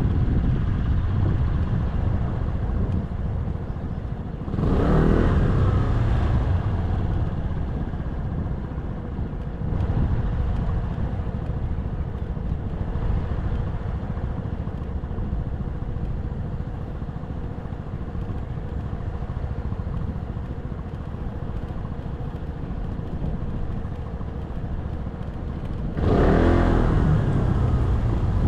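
A motorcycle engine running under way, with a steady low rumble and wind noise on the action camera's microphone. The sound swells louder twice, about five seconds in and near the end, with a sweeping pitch.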